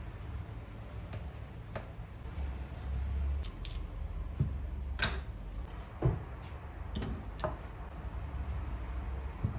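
Scattered light clicks and knocks of small objects being handled, about eight in all, the sharpest about six seconds in, over a low steady rumble.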